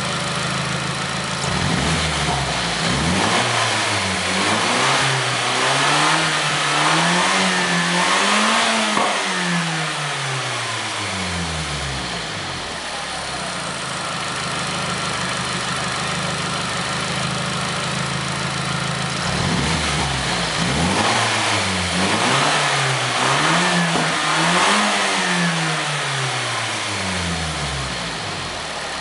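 Nissan SR20DET 2.0-litre turbocharged four-cylinder engine idling, then revved in a run of quick throttle blips that climb higher each time before dropping back to idle; this happens twice.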